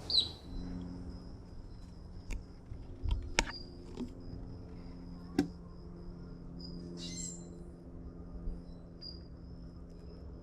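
An insect trills steadily at a high pitch, over a low steady hum. A short falling chirp comes right at the start, a few sharp knocks follow between about two and five seconds in, and a brief raspy call comes near seven seconds.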